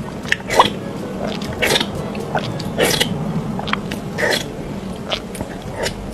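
Close-miked eating sounds of a mukbang: a person biting and chewing food, with about a dozen irregular crisp bites and wet mouth clicks.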